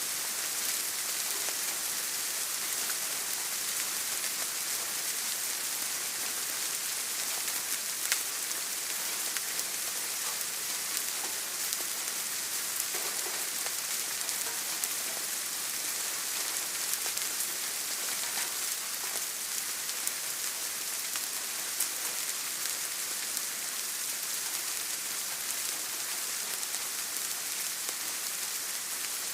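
Steady rain falling on a surface, an even hiss with scattered drop ticks and a few slightly louder drops.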